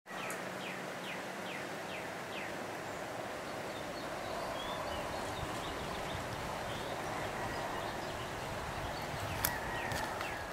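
Outdoor ambience: a bird sings a run of about six quick, high, descending notes in the first couple of seconds over a steady background hiss, with a few fainter chirps later and a single click near the end.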